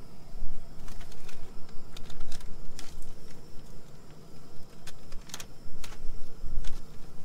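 MRE food pouches being handled and opened: scattered crinkles and clicks of packaging, over a steady low rumble.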